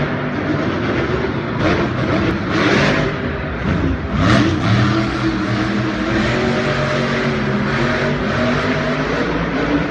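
Racing truck engines running and revving, the pitch rising about four seconds in, with a few short rushing noises in the first half.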